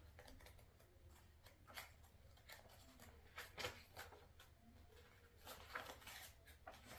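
Faint rustling and soft clicks of paper pages being turned and handled in an activity book, a few scattered touches with the clearest about halfway through and again near the end.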